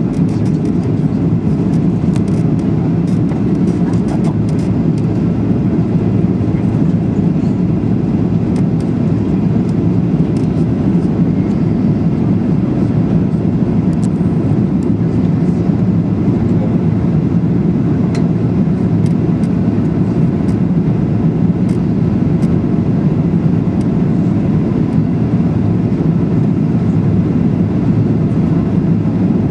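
Steady cabin noise inside a Boeing 737-800: a constant low rumble of engines and airflow with faint, scattered light rattles.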